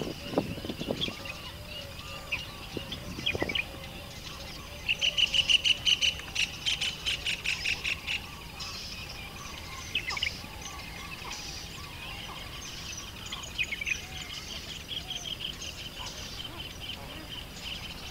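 Birds chirping and calling. About five seconds in, one bird gives a fast run of loud repeated notes lasting about three seconds. Two soft low knocks come in the first few seconds.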